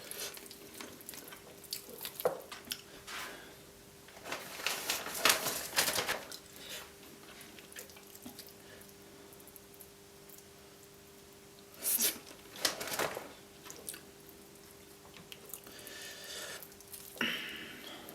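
Hands pulling the meat off a roast chicken's bones: wet tearing and squelching in scattered bursts, the biggest about five seconds in, around twelve seconds in and near the end.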